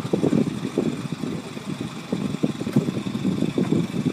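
The sailboat's auxiliary engine running at low throttle: an uneven, fluttering low rumble.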